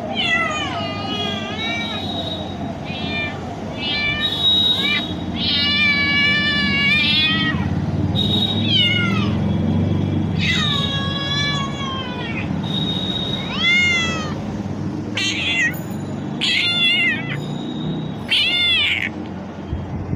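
Domestic cat meowing over and over, about ten calls in a row. Some are long and wavering, others short and rising then falling.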